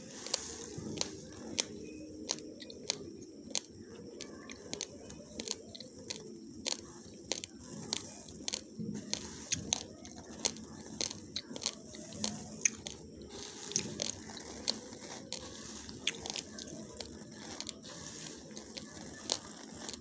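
Raw basmati rice grains being chewed: dry, sharp crunches that come irregularly, several a second.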